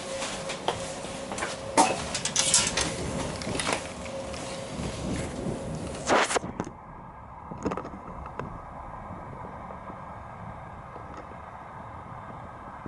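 Inside a moving passenger train: wheels knocking and clacking over rail joints and points, over the carriage's steady running noise. About six seconds in the knocking stops abruptly, leaving a quieter steady hum.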